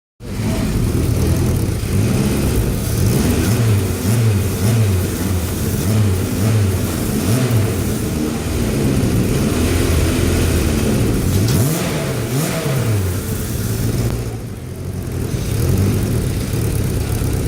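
Freshly rebuilt 2.4-litre four-cylinder engine of a 2006 Chevrolet Cobalt being revved over and over in short blips, the pitch rising and falling with each one; after the first half the revs rise and fall more slowly.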